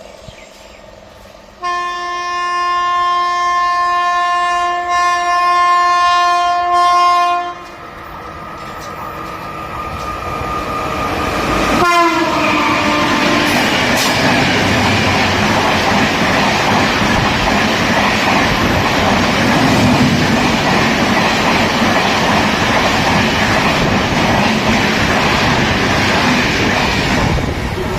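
Indian Railways express train sounding a long, steady horn blast of about six seconds, then approaching and passing close by. A short horn note falls in pitch as the train passes, followed by a steady loud rush and clatter of the coaches going by.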